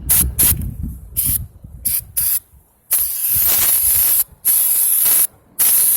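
Aerosol lubricant sprayed onto a bicycle part to keep it from sticking and rusting. It comes in several short hissing bursts, then longer sprays of about a second each.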